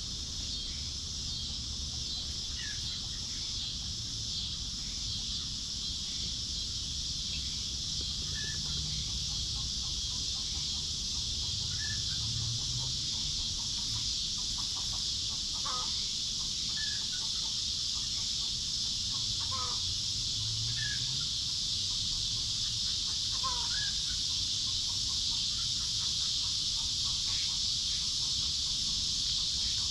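Hens clucking softly as they forage, with short calls every few seconds. Behind them runs a steady high drone of insects.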